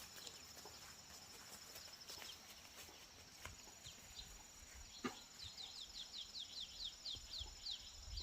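Quiet rural outdoor ambience: a steady high buzz, with a bird calling a quick falling chirp over and over, about three a second, from about halfway in, and scattered light clicks.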